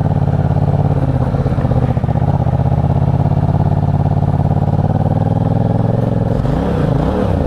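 Motorcycle engine running at a steady pace, its pitch dipping and rising a couple of times near the end.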